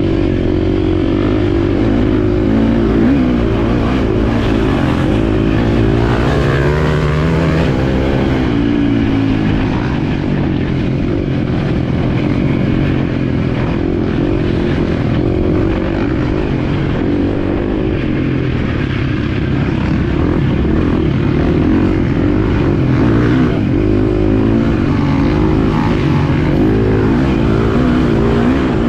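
Motocross bike engine being ridden round a dirt track, its pitch rising and falling again and again as the throttle is opened and shut.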